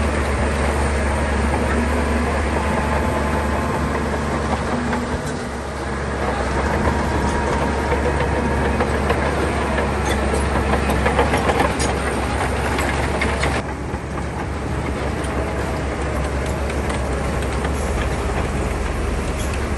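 Shantui crawler bulldozer's diesel engine running steadily, with a dense clanking clatter over it, typical of steel tracks working while the machine pushes stone. The clatter drops off abruptly about two-thirds of the way in while the engine runs on.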